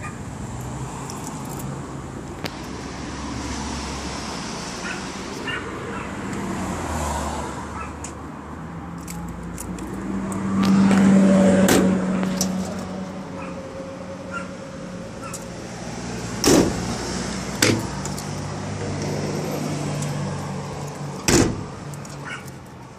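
1996 Chevrolet 3500's 6.5-litre turbo-diesel V8 running with a steady low hum, swelling louder for a couple of seconds about ten seconds in. Three sharp knocks come in the second half, twice close together and once near the end.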